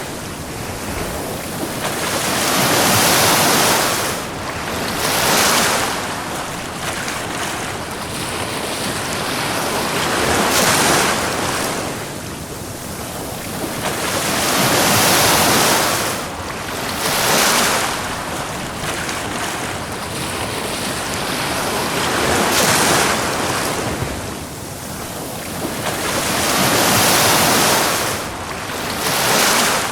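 Ocean waves breaking and washing up a beach, the surf swelling and falling back every three to five seconds in loud rushing surges.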